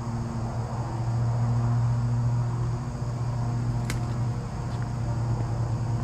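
A steady low machine hum, with a single sharp click about four seconds in.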